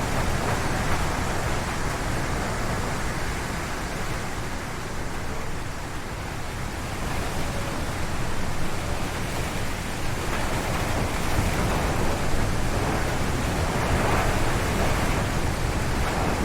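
Strong wind gusting through forest trees, an even rushing noise that eases a little around the middle and builds again a few seconds later.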